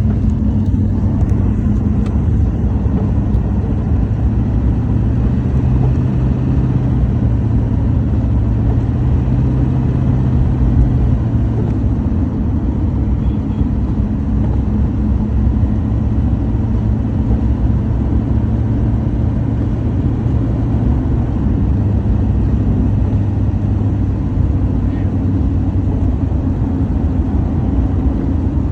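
Steady low rumble of a running vehicle, with a few held low tones and no break.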